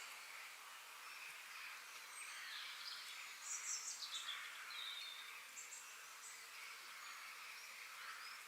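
Forest ambience: birds chirping over a steady, faint high background hiss. A burst of rapid high chirps with falling notes comes about three and a half seconds in, and shorter calls come around six seconds.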